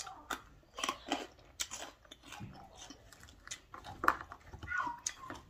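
Close-up eating sounds: a person biting and chewing food, heard as a string of irregular short clicks.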